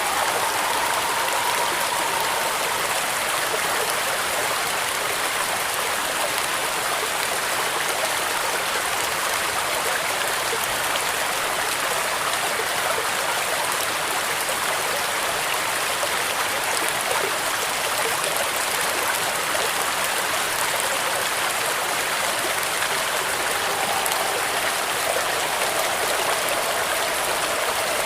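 Steady heavy rain with wind, an even hiss that does not let up. A faint whistling tone wavers up and down near the start and again near the end.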